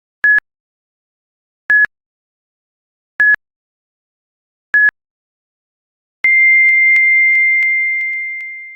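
Electronic beep tones: four short beeps about a second and a half apart, then a longer, slightly higher beep that slowly fades out.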